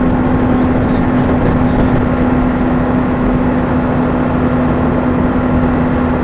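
Honda CBR600RR inline-four sport-bike engine running at a steady speed in a high gear, holding one even pitch, with the rush of wind over the bike.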